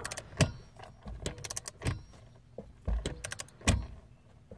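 Ratchet torque wrench being worked in short strokes: irregular clusters of sharp metallic clicks and clinks. The wrench has not yet reached its set torque, so its click-off never comes.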